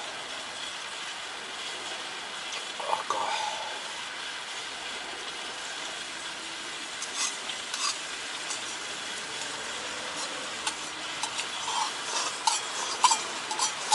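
Utensils clicking and clinking against a pot and bowl while eating kimchi hot pot udon, over a steady low hiss; the clicks come in small clusters, thickest near the end.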